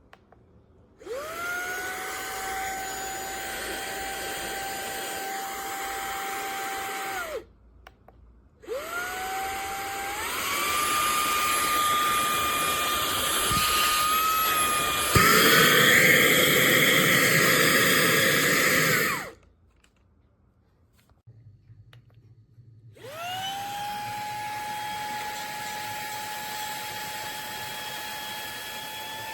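Fanttik Slim V8 Apex cordless handheld vacuum motor switched on and off three times, each time spinning up with a rising whine and then running steadily. During the second run it steps up twice to higher speed settings, growing louder, and is at its loudest before it is switched off.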